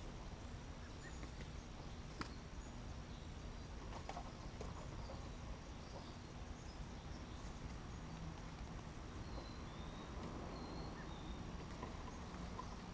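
Faint outdoor ambience with a low wind rumble. Small birds give short high chirps now and then, and a sharp click comes about two seconds in.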